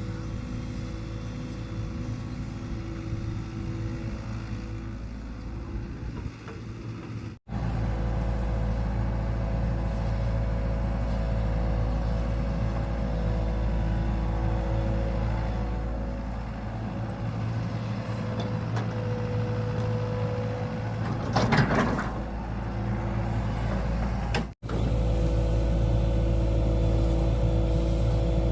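Excavator's diesel engine running steadily, with a short loud clank or hiss about three quarters of the way through. The sound breaks off for an instant twice.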